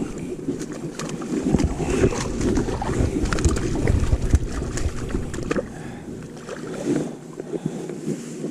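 Wind rumbling on the microphone with scattered knocks and clicks of gear being handled in a kayak.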